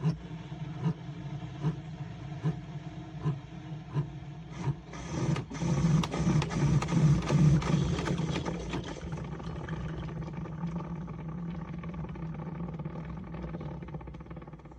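Single-serve coffee maker running: a steady pump hum with a regular pulse, swelling about five seconds in into a louder rush and sputter, then settling back to a steady hum that fades near the end.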